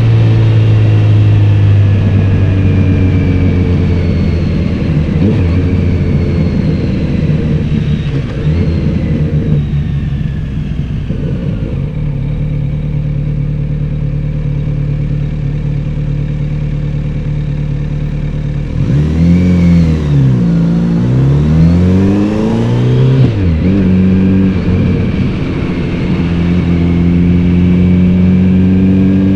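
Kawasaki Z900RS inline-four engine and exhaust under way, holding steady revs for most of the time and easing off briefly about a third of the way through. About two-thirds in, the revs swing quickly up and down a few times, then settle to a steady pitch again.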